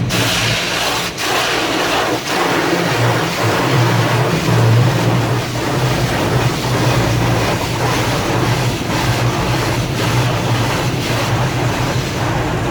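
Automatic tunnel car wash working over a vehicle, heard from inside the cabin: a steady rush of water and cloth on the body over a constant machinery hum, with a soft thud about once a second.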